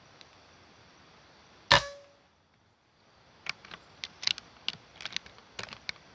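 A single air rifle shot, a sharp loud crack with a short tail, about a second and a half in. About two seconds later comes an irregular run of quick, sharp clicks and ticks.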